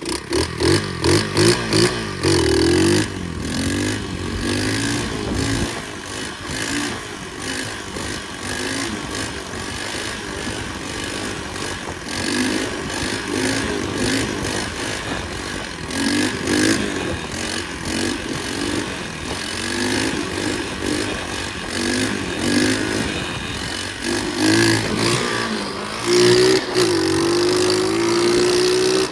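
Flywing pit bike engine coming back to life with a sudden loud burst of uneven revs, then running with repeated throttle surges, and near the end a steadily rising tone as the bike accelerates.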